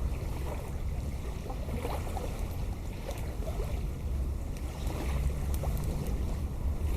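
Wind buffeting the microphone in a steady low rumble, with a campfire crackling in short scattered snaps.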